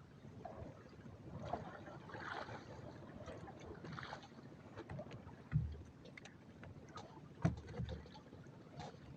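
Sounds of a small fishing boat at sea: water sloshing against the hull, with scattered knocks on the boat, two of them louder about five and a half and seven and a half seconds in.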